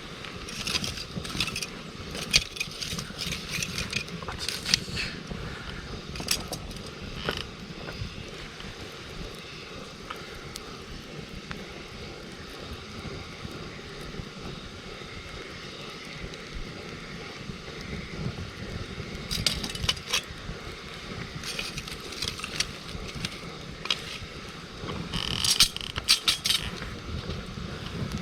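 Wood campfire crackling, with scattered clusters of sharp snaps and pops over a steady low background noise.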